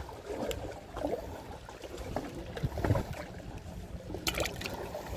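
Sea water lapping and sloshing, with scattered small clicks and a short rattle of clicks about four seconds in.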